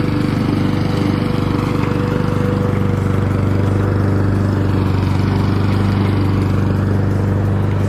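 Lawn mower's small petrol engine running at a steady speed, with a constant low hum.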